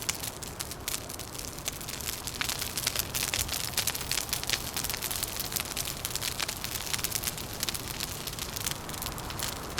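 Wood fire crackling, with dense pops and snaps thickest in the middle, over a steady low rushing background.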